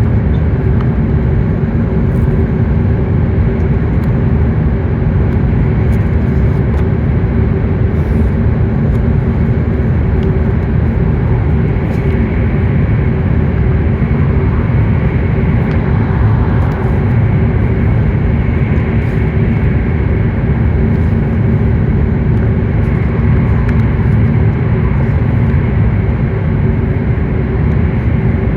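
Steady running noise inside a W7 series shinkansen passenger car at speed: a loud, even low rumble of wheels on rail with faint steady hums over it.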